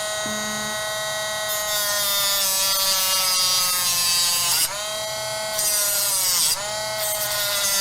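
Small handheld power tool's motor whining at a steady pitch while cutting through a popsicle stick, with a hissing cutting noise from about a second and a half in. The pitch sags briefly twice in the second half as the motor bogs under load.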